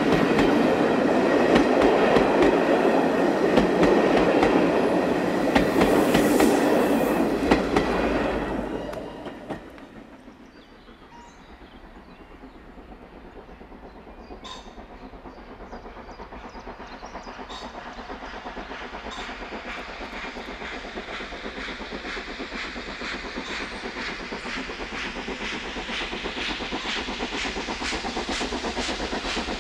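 A train running past close by, its wheels clattering over the rail joints, loud for the first several seconds, then falling away about nine seconds in. After a quieter stretch, wheel clatter builds up again, a steady run of clicks growing louder toward the end.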